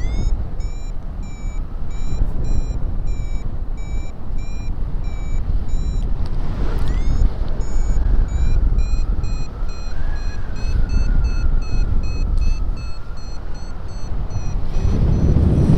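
Paragliding variometer beeping in a steady stream of short pitched beeps, the climb tone that signals rising air in a thermal. The beeps break off briefly about six seconds in, then resume a little higher in pitch, a sign of a stronger climb. Wind rushes over the microphone underneath.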